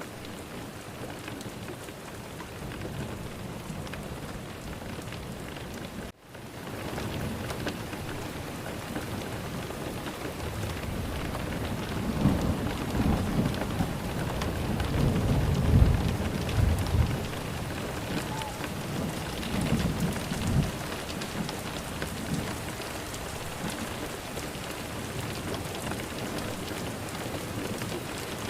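Steady rainfall with a rolling rumble of thunder that builds in the middle and fades away. The rain cuts out for an instant about six seconds in.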